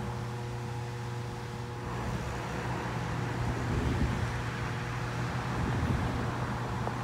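Distant diesel train running steadily down the line: a low rumble with a constant hum.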